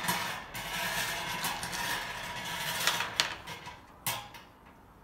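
Numbered plastic draw balls rattling and tumbling together as they are mixed for the draw, with a few sharp clicks about three seconds in and a short final rattle about four seconds in, after which it goes quiet.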